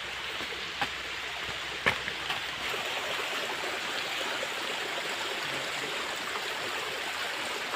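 Small waterfall: water rushing steadily over rocks, with a few sharp clicks in the first couple of seconds.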